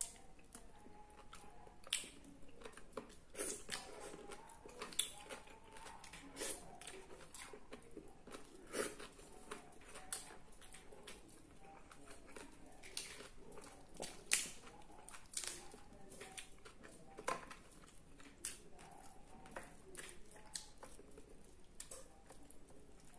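A person chewing roast chicken and rice up close, eating by hand, with many irregular sharp mouth clicks and smacks.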